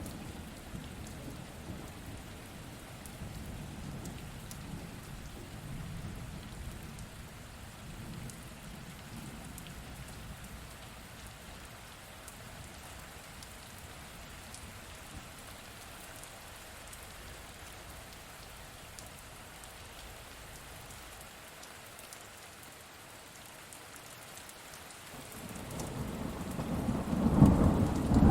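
Steady rain falling, with thunder rumbling low in the first part, easing off, then a loud rumble of thunder building near the end.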